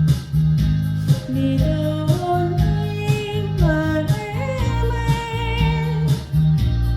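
Trot song accompaniment playing with a steady, even bass beat, and over it a melody line that slides between long held notes.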